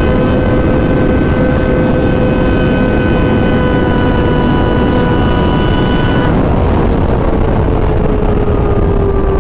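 Sport motorcycle engine holding a steady high-pitched note under heavy wind rush, as heard while riding. The engine note sags slightly lower in the last few seconds.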